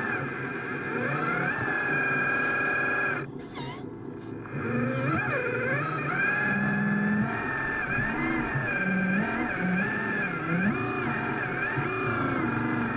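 Electric motors and hydraulic pump of radio-controlled construction machines whining as they work, their pitch holding and then sliding up and down as the load changes. The sound drops away briefly a little over three seconds in, then picks up again.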